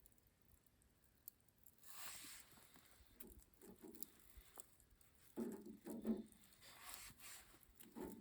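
Faint, soft handling noises: light rustles and taps starting about two seconds in, with a few short, slightly louder low bumps in the second half.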